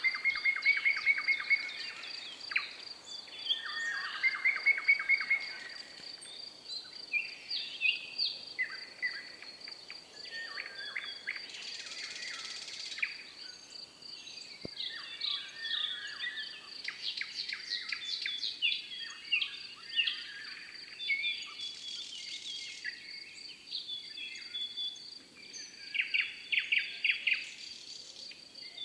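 Several birds singing and calling in a forest, overlapping chirps, fast trills and short whistles from different birds. A steady, high, finely pulsed trill runs underneath throughout.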